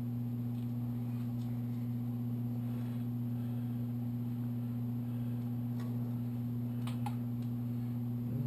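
Steady low hum throughout, with a few light clicks of metal engine parts and tools being handled during motorcycle engine teardown, about six and seven seconds in.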